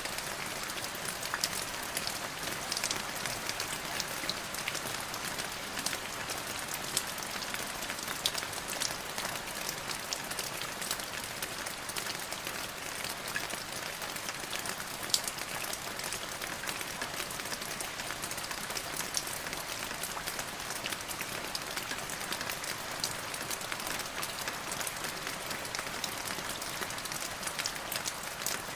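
Steady rain falling on a surface: an even hiss of many drops, with scattered sharper drop ticks.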